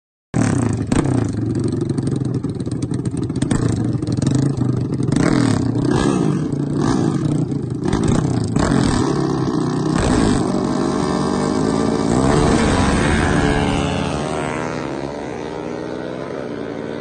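Pickup truck engine running hard at high revs with the load changing, then falling in pitch and fading somewhat near the end.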